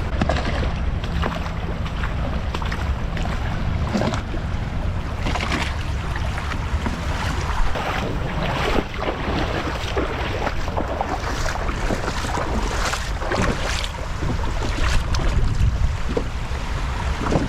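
Strong wind buffeting the microphone in a steady low rumble, with waves washing on the shore and irregular short crunching or splashing sounds throughout.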